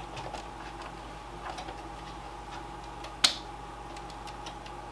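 Light clicks and one sharp click about three seconds in, from handling the opened desktop PC and its parts, over a faint steady hum.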